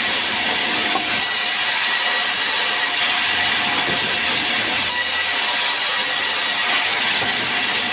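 Sawmill saw cutting through sengon wood: a steady, unbroken hiss, mostly high-pitched.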